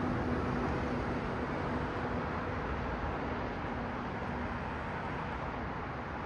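Street traffic: a steady rush of cars passing on the road, tyre and engine noise with a faint low engine hum that fades as the sound slowly eases off.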